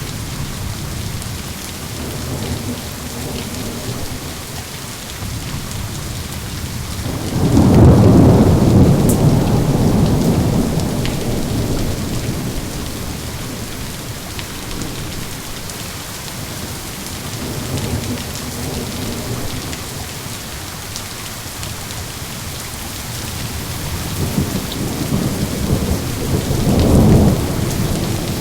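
Steady rain falling, with thunder: a loud low rumble about a third of the way in that rolls away over several seconds, and another rumble building near the end.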